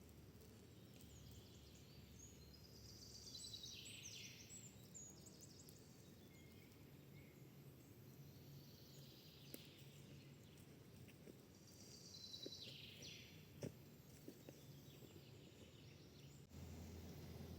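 Faint birdsong over quiet outdoor background noise: a small songbird sings two quick falling phrases, one about three seconds in and one about twelve seconds in. A single sharp click comes shortly after the second phrase.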